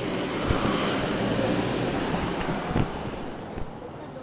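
Steady rushing noise that slowly fades toward the end, with a few faint knocks.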